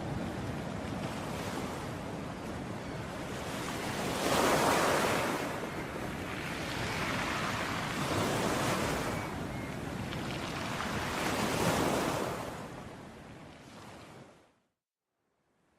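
Sea waves surging and washing in, swelling and ebbing about every four seconds. Near the end the sound fades out to silence for about a second, then comes back.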